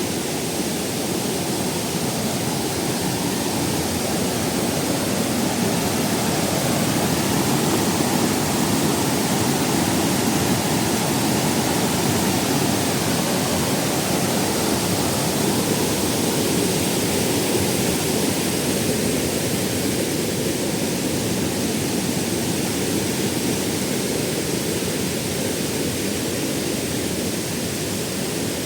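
A waterfall's water pouring and splashing as a steady, full rush of noise that swells a little in the middle.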